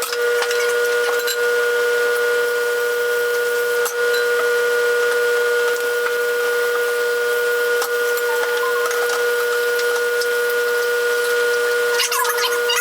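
Microwave oven running through a cook cycle, a steady hum over a hiss, heating vinegar and water in an Angry Mama steam cleaner.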